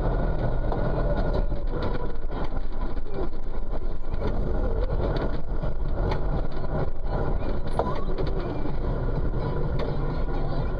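A heavy vehicle's engine running steadily, with scattered short knocks and rattles.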